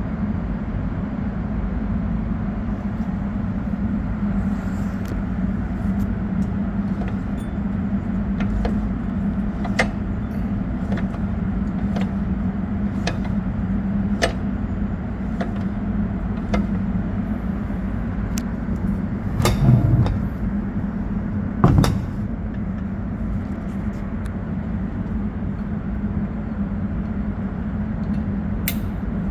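A steady low mechanical hum with scattered light clicks, and two louder knocks about two-thirds of the way through.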